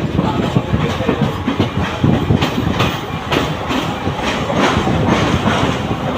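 Mumbai local (suburban electric multiple-unit) train running at speed: a steady rumble with the wheels clicking over rail joints again and again.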